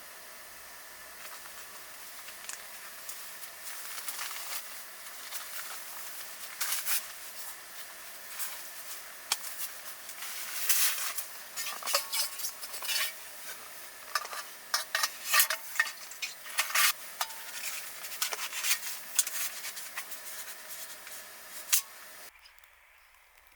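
Utensil clinking and scraping against a pan or dish over a steady sizzling hiss, as in stirring food while it cooks. The clatter comes in irregular bursts and cuts off abruptly near the end.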